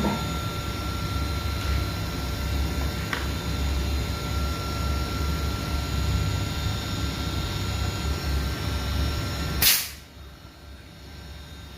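Panasonic inverter air-conditioner compressor running on a repaired inverter board: a steady low hum with a faint high whine. Near the end there is a sudden loud burst of noise, and after it the sound drops much quieter.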